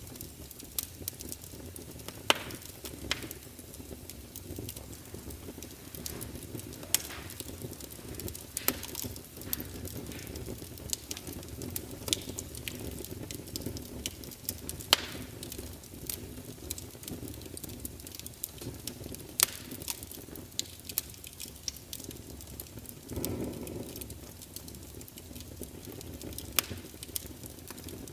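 Wood fire burning, crackling and popping: irregular sharp pops and snaps over a steady low rush of flame, with a brief louder swell of the flame about three-quarters of the way through.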